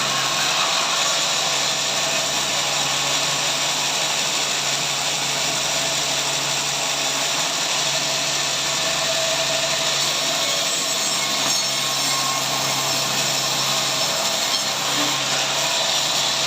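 A powered saw cutting through a log in a sawmill, running steadily under load throughout.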